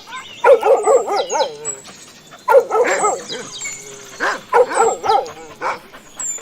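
Dog barking in three quick runs of high-pitched, yelping barks, about four or five barks a second.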